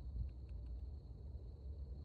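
A chorus of crickets trilling in one steady, unbroken high note, with a few short faint chirps in the first second and a low rumble on the microphone beneath.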